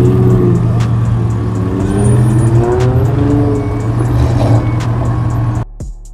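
Car engines running with a steady low rumble, other pitched sounds gliding up and down above it; the sound cuts out suddenly for about half a second near the end.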